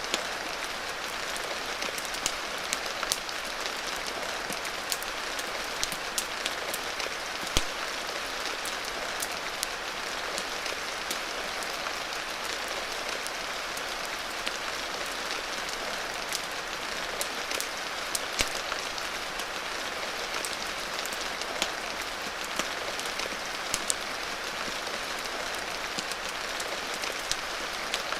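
Steady rain hiss, with many scattered sharp clicks and ticks throughout.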